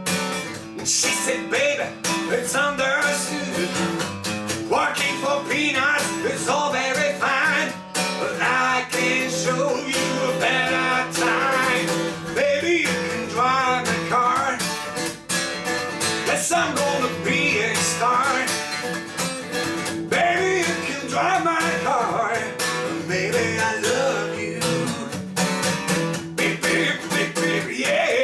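Music: an acoustic guitar strummed steadily in rhythm.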